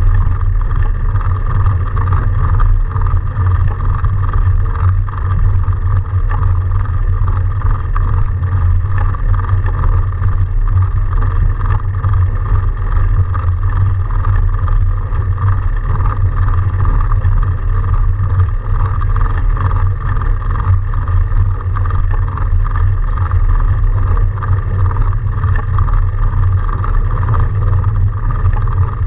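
Steady low rumble of a fat bike being ridden through snow: wind buffeting the microphone over the hum and rush of the bike's tyres, with no breaks.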